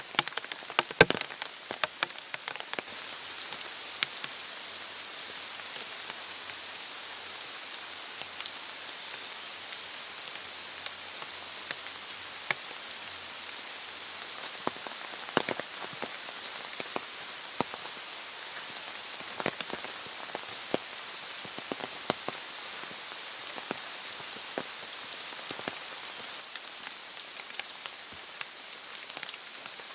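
Steady rain falling, an even hiss broken by many irregular sharp taps of heavier drops landing.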